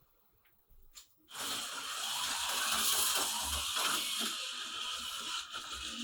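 HO slot car, a truck on a 440 chassis, running laps with its small motor whirring steadily. It starts after a couple of light clicks about a second in.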